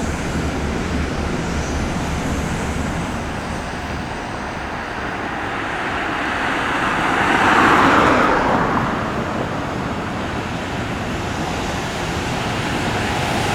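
Steady road traffic noise, with one vehicle passing by about eight seconds in. The noise starts building again near the end.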